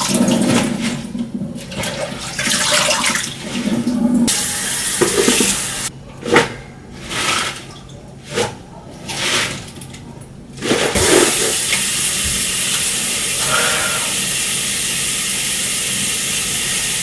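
Water running from a tap into a sink, at first in short bursts with splashing and handling noise, then flowing steadily from about eleven seconds in as the basin fills, with the first half of a batch soaking in it.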